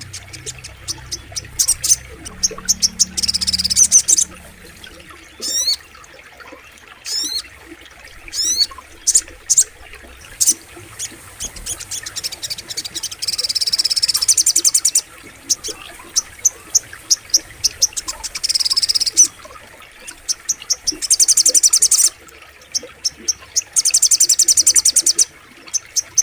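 Spiderhunter (sogok ontong) song: a series of sharp high chips broken by rapid, buzzy high trills of a second or two each, with a few quick downward-sweeping notes early on. A low hum sits underneath during the first few seconds.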